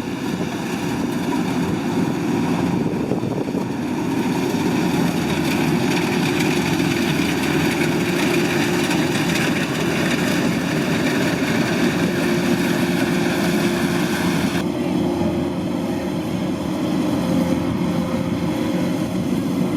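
Kubota DC-105X combine harvester's diesel engine running steadily under load, with the hiss and rattle of its cutting and threshing gear. The high hiss drops away suddenly about fifteen seconds in, while the engine runs on.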